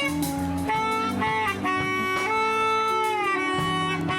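Live small band playing: a wind instrument carries a melody of long held notes, some sliding down in pitch, over bass and chord notes.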